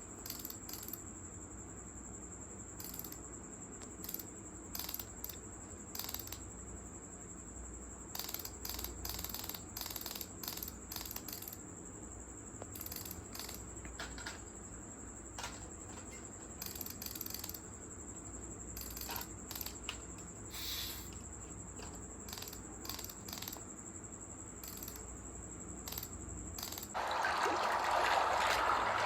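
Scattered light clicks and clinks, irregular and mostly faint, over a thin steady high-pitched tone. About 27 seconds in, a louder, steady rushing sound like running water starts.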